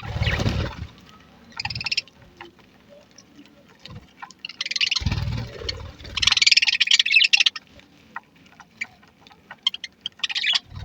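A flock of budgerigars chattering and chirping in several dense bursts, the loudest about six to seven seconds in, with scattered clicks between them. Low rumbles come at the very start and again around five seconds in.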